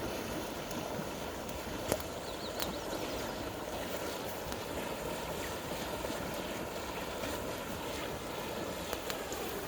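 Steady rushing of river water, with a few sharp pops through it.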